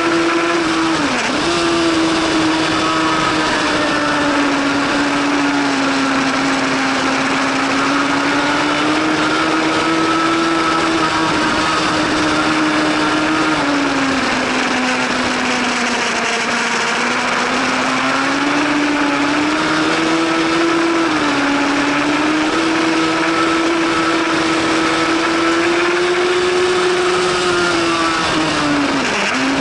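Superbike 1000-class racing motorcycle engine running continuously at high revs. Its note drifts slowly up and down, with brief sharp dips about a second in, about two-thirds through and just before the end.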